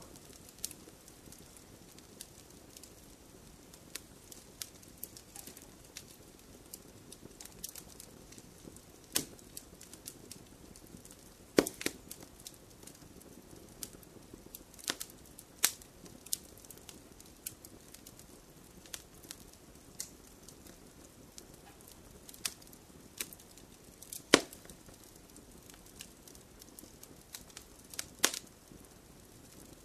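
Wood fire in a fireplace crackling, with a soft hiss under irregular sharp pops and snaps, two louder pops about a third and four-fifths of the way in.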